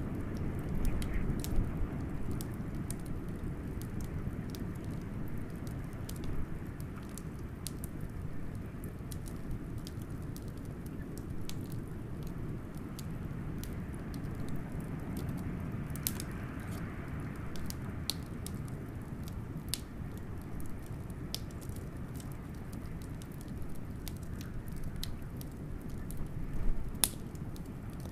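Wood fire crackling, with scattered sharp pops and snaps, over a steady low rush of blizzard wind. The wind swells about halfway through, and a louder pop comes near the end.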